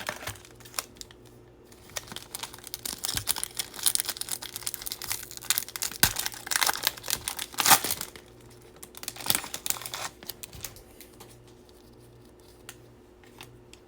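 Foil wrapper of a Bowman baseball card pack crinkling and tearing as it is opened, a busy crackle that dies down about two thirds of the way through to a few faint clicks of cards being handled.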